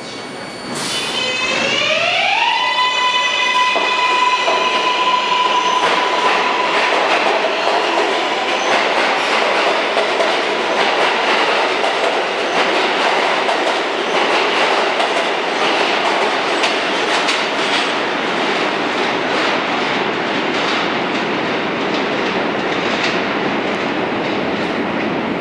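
R143 subway train accelerating away: its propulsion whine starts about a second in and climbs in pitch as a stack of tones, levels off, then fades into a steady rumble of wheels on rails with clickety-clack.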